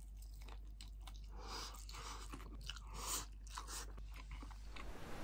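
Faint close-up chewing of a mouthful of crunchy-coated karaage (Japanese fried chicken) and rice, with irregular crunches, the loudest a little past the middle.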